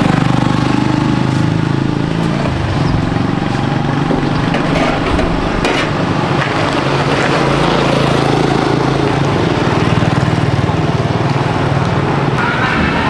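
A small engine running steadily, its low hum holding level throughout.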